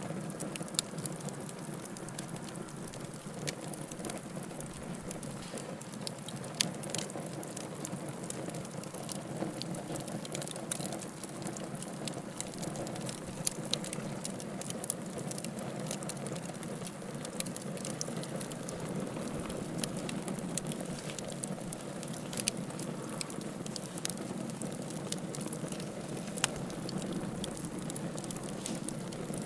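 Wood fire burning in a fireplace: a steady low rush of flames with irregular crackles and occasional sharper pops of burning firewood.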